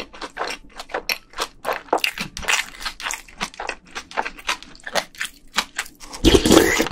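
Close-miked chewing of a mouthful of beef bibimbap, a quick run of wet, crunchy mouth clicks. Near the end comes a louder, longer burst as the next spoonful goes into the mouth.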